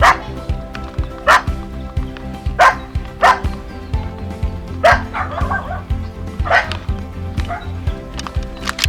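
A dog barking repeatedly, sharp single barks at uneven intervals about one to two seconds apart, over background music with a steady beat.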